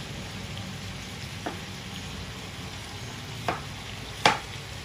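Steady sizzling of food frying in a hot pan, with three sharp knocks of a chef's knife cutting through tomatoes onto a plastic cutting board, the loudest near the end.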